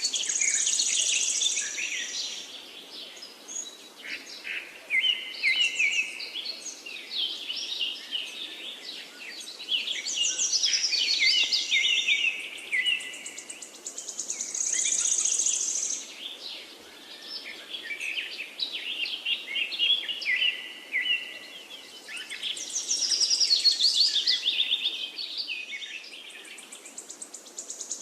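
Several songbirds singing at once: overlapping chirps and quick trills, with a high, buzzy trill that comes back several times.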